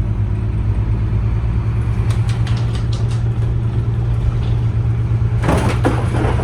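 Tour bus engine running with a steady low drone as the bus drives along, heard from the top deck. A short noisy rush comes about five and a half seconds in.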